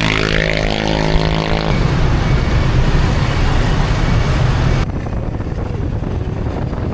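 Car engine accelerating, its pitch rising over the first second or two, then giving way to the steady road and wind noise of driving.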